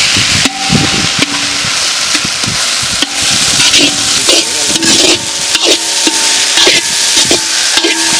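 Onion and spice paste frying in hot oil in a pan, a steady sizzle, while a ladle stirs and scrapes the pan in repeated strokes, about two a second, some of them ringing briefly.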